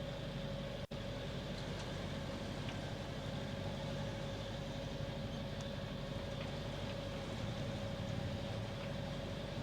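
Catamaran's engine running steadily at low speed, a constant low hum with a steady mid-pitched drone. The sound cuts out for an instant about a second in.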